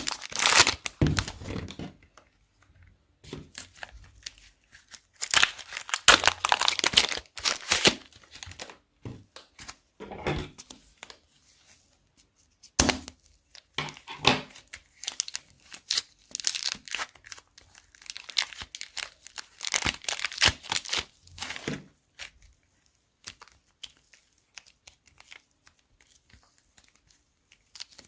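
Plastic bags crinkling and crackling as they are handled, in bouts of a few seconds with short pauses between them, fading to scattered faint crackles near the end.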